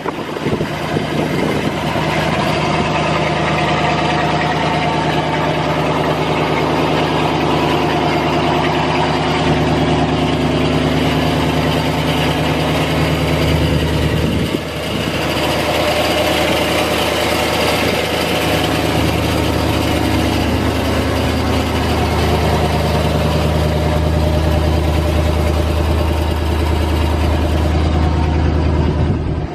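A 1977 Chevrolet C60 grain truck's gasoline 350 V8 engine running steadily, with a brief dip in level about halfway through.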